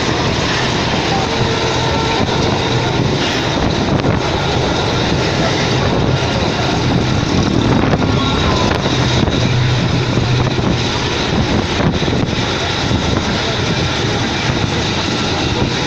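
Steady running noise of a moving train, heard from inside the carriage.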